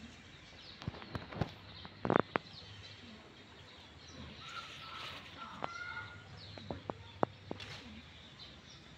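Birds calling with short chirps and whistles over a steady faint outdoor hiss, broken by a handful of sharp clicks, the loudest pair about two seconds in.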